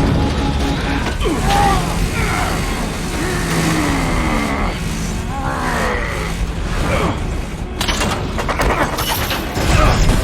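Action-movie soundtrack: dramatic score mixed with metallic clanks, crashes and mechanical noise. An evenly pulsing beep stops about a second in.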